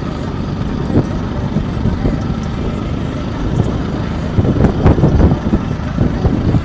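A vehicle on the move: a steady low rumble of engine and road noise, with a run of louder bumps and knocks about four to five seconds in.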